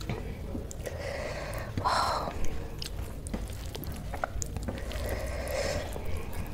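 Close-miked eating sounds: wet chewing and lip smacks of a mouthful of rice and curry, with a louder burst of chewing about two seconds in. Fingers squish and mix rice on a steel plate.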